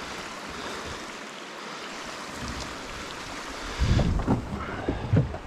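Steady rush of water, with a cluster of low thumps and knocks about four seconds in.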